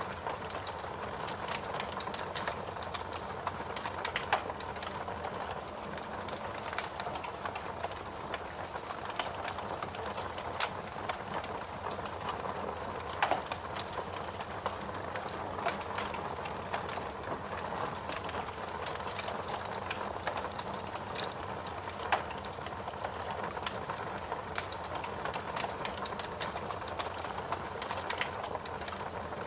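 Log fire in a fireplace burning steadily with a continuous crackle and frequent sharp pops. Two louder pops come about 13 and 22 seconds in.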